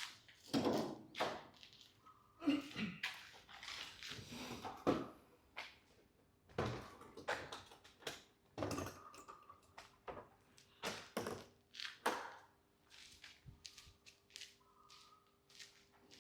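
Scattered, irregular thunks and taps of handling noise, with a faint steady hum in the second half.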